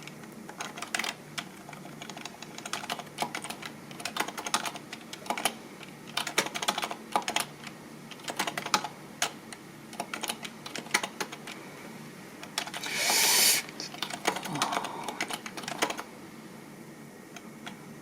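Typing on a computer keyboard: irregular runs of sharp key clicks in quick bursts, with one louder short rush of noise about two-thirds through. The typing stops about two seconds before the end.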